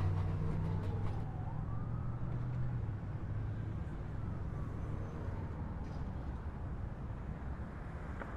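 Low rumble of a subway train pulling out and fading over the first few seconds, with a faint wailing tone that rises and then slowly falls in the background.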